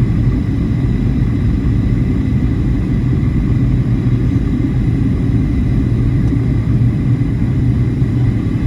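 Steady low rumble of an airliner's cabin in flight, the drone of the jet engines and airflow, with a faint steady high whine above it.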